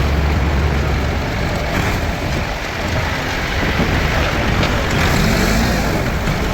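A heavy vehicle's engine running under a steady rushing noise, its pitch rising slightly near the end.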